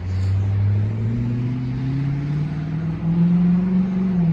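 Dodge Magnum's 5.7 HEMI V8 through a muffler- and resonator-delete exhaust (X-pipe and catalytic converters only), its exhaust note starting suddenly and climbing steadily in pitch as the car accelerates, easing off slightly near the end.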